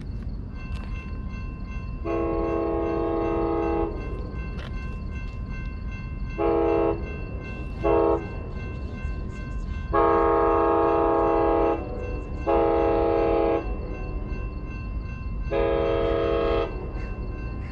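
Locomotive air horn sounding six blasts, some long and some short, over the steady low rumble of a train.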